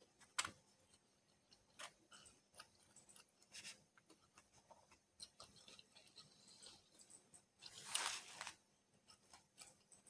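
Faint chewing and mouth sounds of a person eating pork fried rice, with scattered small clicks and a longer rustling noise about eight seconds in.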